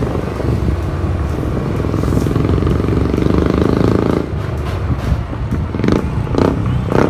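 Royal Enfield Thunderbird 350X's 346 cc single-cylinder engine running through an aftermarket Red Rooster exhaust, at a steady raised speed for about four seconds. The note then drops to a lower, unsteady run, with a few short, sharp sounds near the end.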